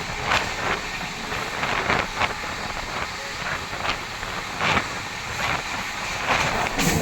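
Express passenger train running at speed: a steady rumble with irregular clattering knocks from the wheels on the track.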